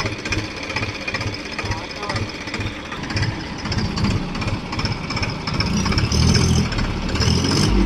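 A tractor's diesel engine chugging at low revs with an even thud about two to three times a second, then running harder and louder from about halfway through as it takes up load.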